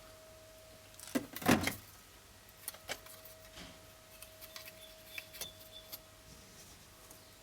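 Knocks and clicks of parts being handled and fitted, the loudest a short cluster of knocks about a second and a half in, then a few lighter ticks, over a faint steady hum.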